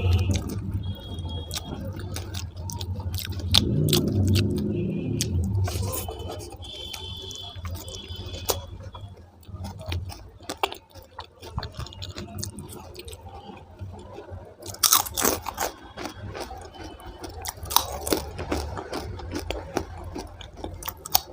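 Close-miked chewing and mouth sounds of a person eating a curry-and-rice meal: wet chewing with many sharp clicks and crackles, a few louder ones about two-thirds of the way through.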